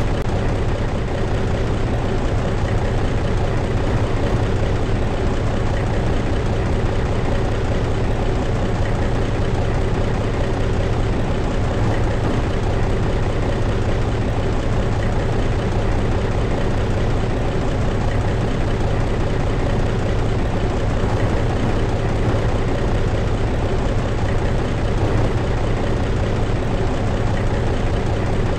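Scania T112 truck's diesel engine idling steadily, a deep even running sound with no change in speed.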